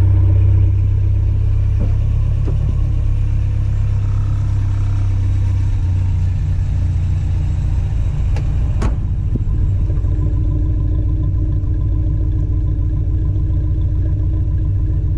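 Toyota 22RE inline-four engine with a stage 2 build idling steadily through a header and MagnaFlow muffler, its exhaust heard up close. The level dips slightly about a second in, then the idle holds even.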